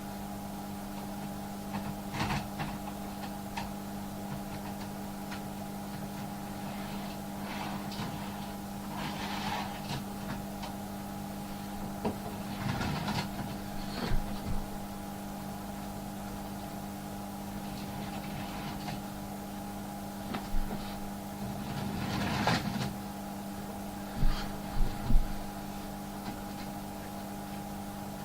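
Steady electrical hum under scattered small clicks, knocks and rustles of hands working a model railway layout, with three sharp clicks close together near the end.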